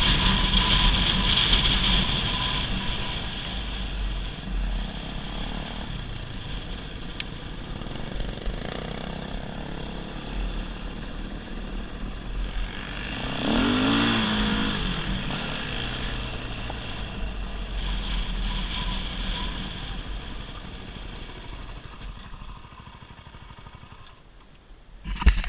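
Dirt bike engine running, revving up and back down once about halfway through, then slowly fading out toward the end.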